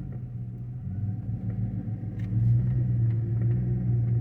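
2005 Chevrolet Silverado pickup rolling slowly, its engine and drivetrain making a steady low hum with a few faint ticks and growing slightly louder about halfway through. This is a slow test drive on a newly replaced hub and wheel bearing.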